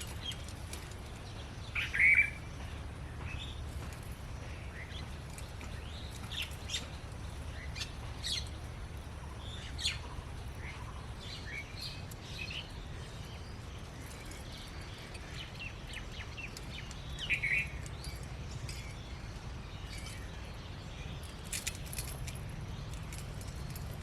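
Birds chirping in short, scattered calls over a steady low rumble, with a louder call about two seconds in and another a little past the middle.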